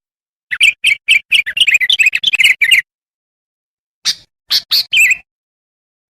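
Kutilang (bulbul) song played as a lure call: a fast chattering run of bright chirps, then a pause, then three short notes.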